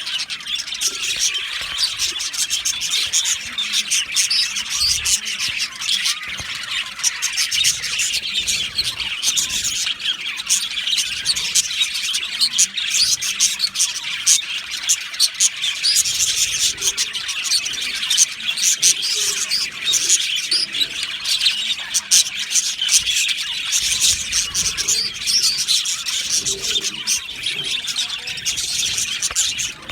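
A colony of budgerigars chattering and chirping together, a dense continuous warble of many birds at once with sharp chirps and clicks.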